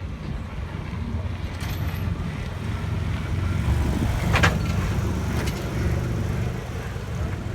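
A car engine running with a low rumble that swells a little toward the middle. A sharp click comes about four and a half seconds in.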